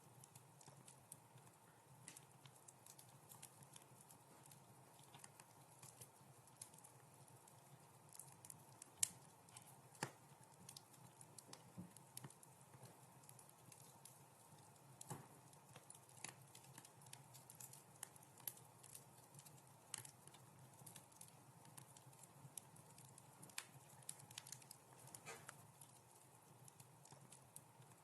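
Wood fire crackling softly: irregular small snaps and pops over a faint steady low rumble, with one sharper pop about nine seconds in.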